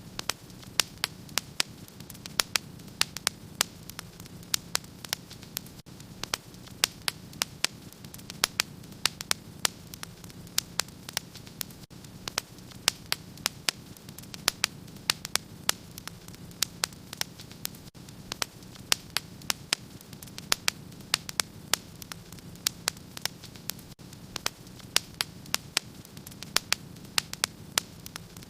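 Wood fire crackling in a fireplace: frequent sharp pops and snaps, several a second, over a steady low hiss.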